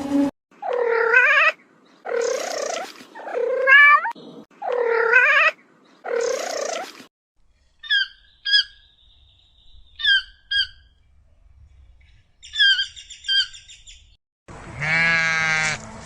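A cat meowing five times in quick succession, each meow wavering in pitch, followed by pairs of short, high chirps. Near the end a long bleat begins.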